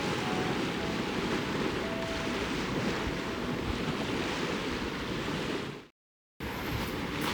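Lake waves washing against the shore, with wind on the microphone. The sound fades out about six seconds in, and after a short silence a similar wash resumes with a few small clicks.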